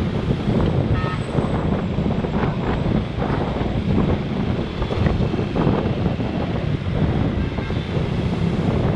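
Wind buffeting the microphone of a GoPro on a moving motorbike, over the running of the motorbike and the surrounding road traffic: a steady, dense rumble.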